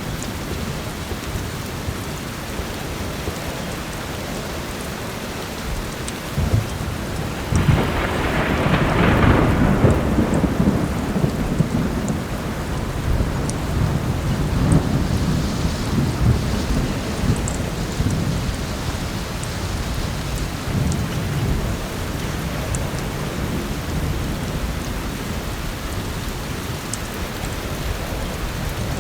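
Heavy rain falling steadily, with a thunderclap breaking about seven seconds in that rolls on in low rumbles for many seconds. A few faint fireplace crackles sound over it.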